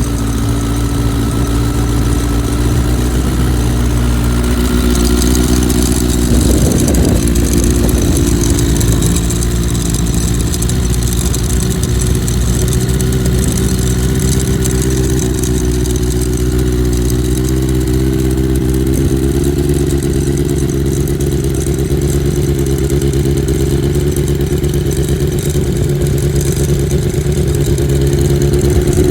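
Oil-cooled Suzuki GSX-R1100 inline-four engine of a Harris Magnum 4 motorcycle running at a steady idle.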